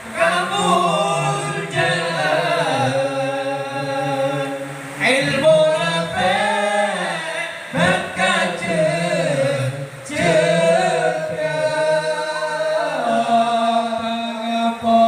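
A man singing a Madurese sholawat unaccompanied, in long held, ornamented phrases with short breaks for breath about a third and two thirds of the way in.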